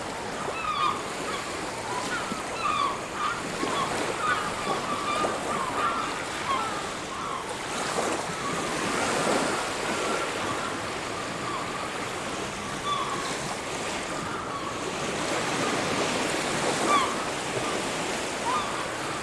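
Sea waves washing onto a beach, swelling twice, with a constant chatter of short, high calls from birds over the surf.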